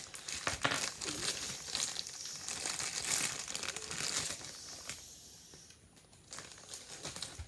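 Plastic food packaging crinkling and rustling as it is handled, busy for the first four seconds or so and then dying down to a few faint rustles.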